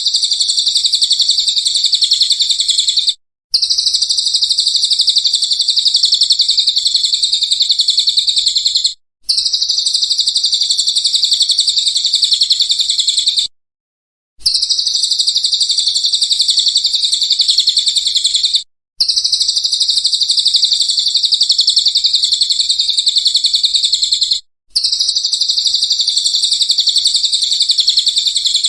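A songbird's rapid, high trilled song from a masteran training recording. It runs in long bursts of about five seconds, each broken off by a brief dead-silent gap, as in a looped recording.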